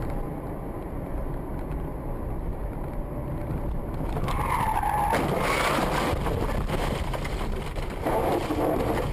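Car road and engine noise picked up by a dash cam. About four and a half seconds in comes a brief high squeal, followed by a louder rush of noise, which fits tyres skidding.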